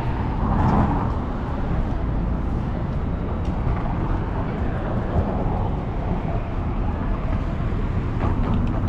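Downtown city street ambience: a steady low rumble of traffic, with faint voices about a second in.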